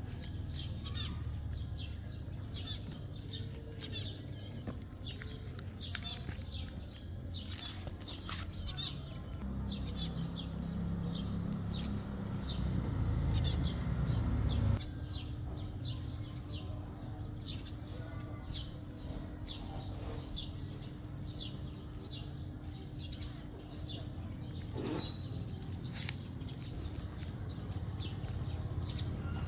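Small birds chirping in many short, quick calls over a steady low rumble. A faint steady hum comes in about halfway through and stops a few seconds before the end.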